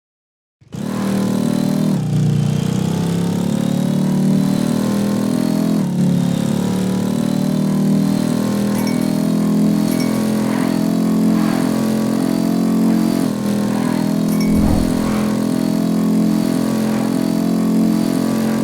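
Motorcycle engine running while riding, starting abruptly under a second in; its pitch dips and climbs again a few times as the throttle changes.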